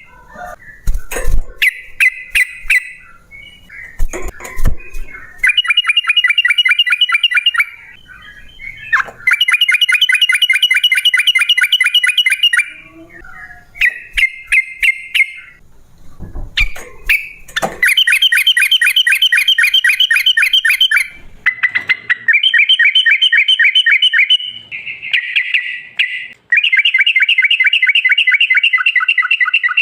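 Yellow-vented bulbul (trucukan) singing its long, rapid chattering rattle, the 'ropel panjang' song, in repeated bursts of a few seconds each. Short sharp clicks and thumps come between the bursts, mostly in the first few seconds and again about halfway through.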